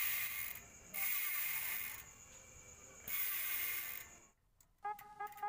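Bicycle rear freehub, a Tanke hub in its unmodified state, ratcheting loudly as the cassette spins freely, in roughly one-second bursts with quieter spells between. A different pitched, pulsing buzz starts near the end.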